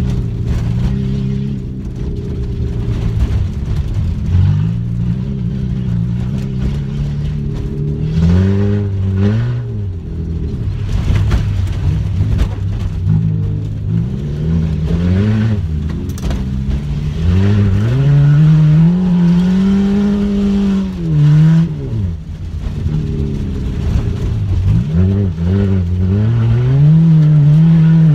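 Peugeot 106 race car's engine heard from inside the cabin, driven hard: it revs up, drops back at gear changes and lifts, and revs up again, over and over. The longest, highest climb comes a little past the middle, and another one near the end.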